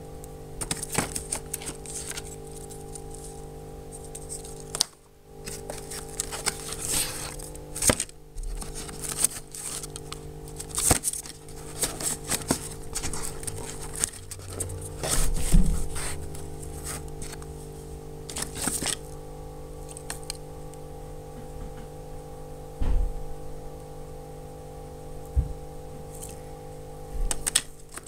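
Handling noise: crinkling and rustling of packaging, with scrapes and knocks as objects are picked up and set down, over a steady electrical hum.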